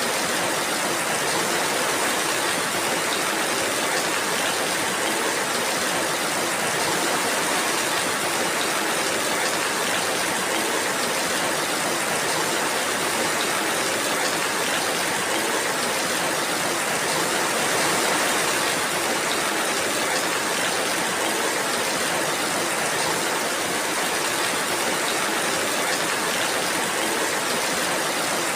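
Steady rainfall, a dense even hiss of falling rain with no separate drops or pauses.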